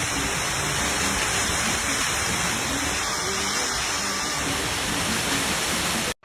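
Steady, even rushing of water, with no words over it, cutting off abruptly near the end.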